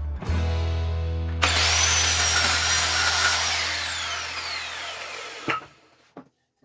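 Electric woodworking power tool switched on, running at speed with a loud high whine for about two seconds, then switched off and spinning down with a falling whine. A sharp knock comes near the end.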